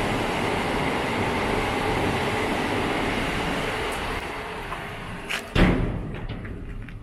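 Thameslink Class 700 electric train running close below, a steady rumble and hiss that eases off toward the end. About five and a half seconds in there is a sharp thump, then wind on the microphone with a few light knocks.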